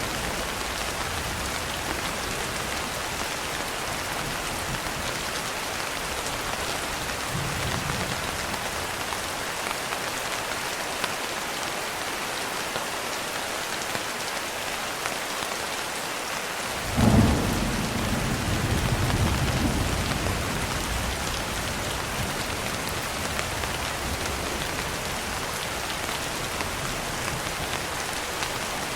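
Steady rain falling, with a sudden clap of thunder a little past halfway that rumbles off over the next few seconds.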